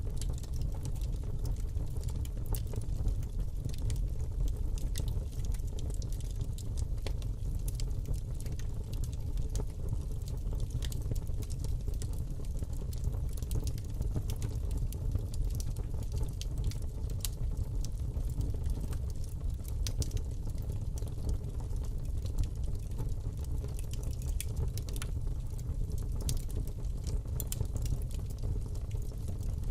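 Fire burning in a fireplace: a steady low rumble of flame with frequent sharp crackles and pops.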